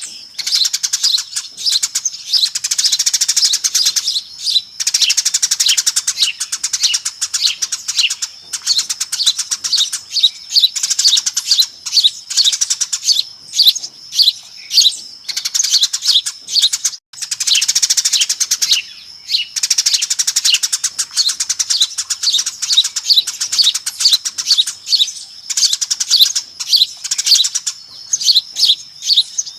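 A flock of Eurasian tree sparrows chirping noisily, a dense chorus of rapid overlapping chirps with only a brief break about seventeen seconds in. This is a sparrow lure call used to draw the birds in.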